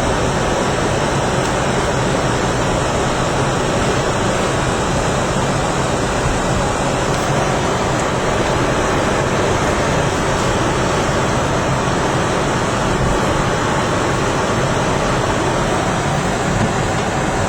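Blizzard wind blowing hard across the camera microphone: a loud, steady rushing noise.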